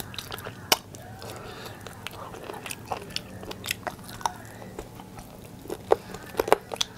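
Close-miked wet chewing and lip-smacking of a person eating biryani and soft curried chicken by hand: sharp mouth clicks scattered throughout, with a quick run of louder smacks about six seconds in.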